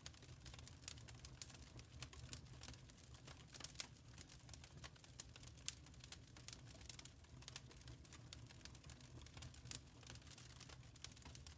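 Wood fire crackling in a fireplace: irregular sharp pops and snaps, several a second, over a soft steady low rumble of the flames.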